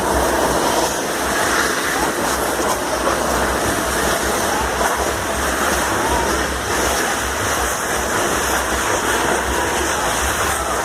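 Loud, steady rushing din with the voices of a crowd mixed in.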